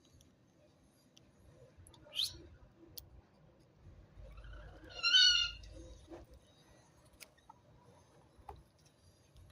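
Budgerigar calls: a short rising chirp about two seconds in, then a louder wavering call lasting about half a second a little past the middle, with a few faint clicks in between.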